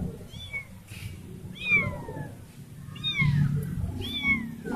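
Kitten meowing: four short high-pitched cries, each falling in pitch, about one a second, over a low rumble. These are the cries of a kitten separated from its mother.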